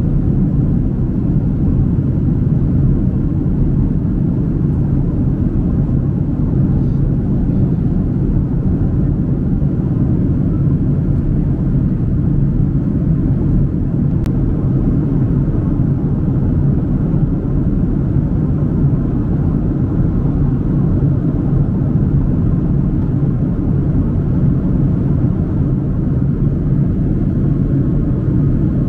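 Boeing 767-300 cabin noise from an economy window seat: a steady low rumble of the jet engines and airflow, with a faint low hum in it and no change throughout.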